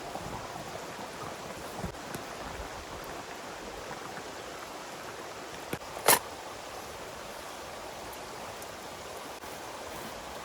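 Steady rush of flowing water, with a single sharp click about six seconds in.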